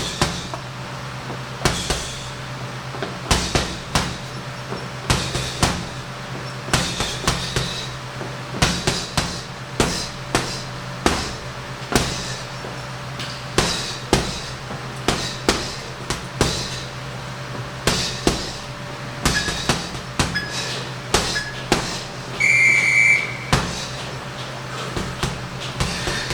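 Punches thudding into a heavy punching bag, thrown in quick combinations of two to five blows with short pauses between, over a steady low hum. Near the end three faint short beeps are followed by one longer, louder high electronic beep.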